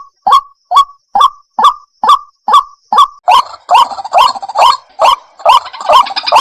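White-breasted waterhen lure call: short, hoarse notes repeated about twice a second. From about halfway, a second overlapping series of calls joins in, making the chorus denser.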